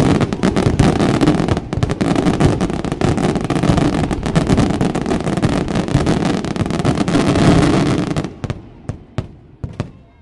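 Fireworks display: a dense, continuous barrage of bangs and crackling that breaks off about eight seconds in, followed by a few last scattered bangs.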